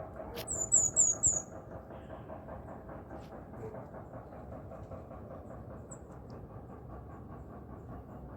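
A small bird gives four quick, high-pitched chirps about half a second in, over a steady rhythmic rumble.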